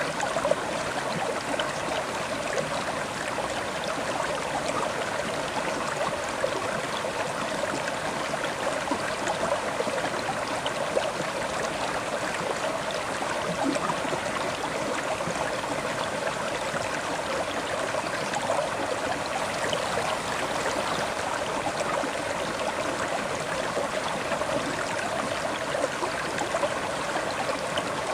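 River water flowing steadily over stones: an even rushing with small splashes and gurgles.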